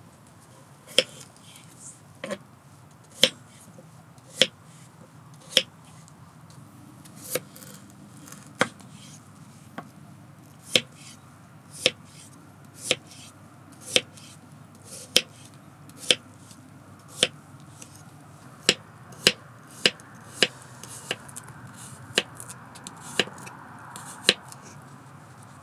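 FEDECA folding cooking knife chopping food on a cutting board: slow, even cuts about once a second, with a quicker run of three or four about two-thirds of the way through.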